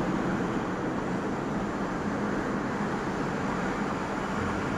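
Steady outdoor urban background of distant road traffic, an even rumble and hiss with no sudden sounds.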